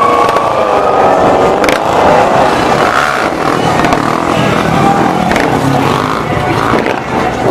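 Loud motor-vehicle engines running and revving, the pitch rising and falling over the first couple of seconds, amid steady traffic noise.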